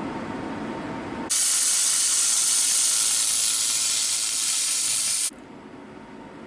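Steady hiss from a handheld laser welding gun while it is fired, starting abruptly about a second in and cutting off suddenly some four seconds later.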